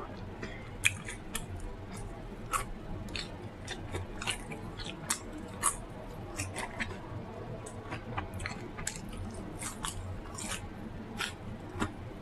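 Close-up eating sounds: chewing and biting, heard as irregular sharp mouth clicks and crunches a few times a second, over a steady low hum.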